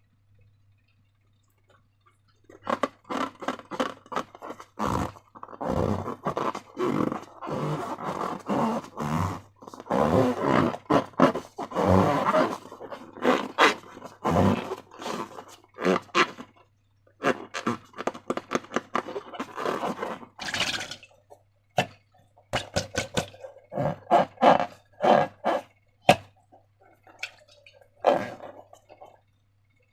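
Slime being squished and worked by hand: a long, irregular run of sticky, crackling squelches that starts a couple of seconds in, with brief pauses. A faint steady low hum sits under it.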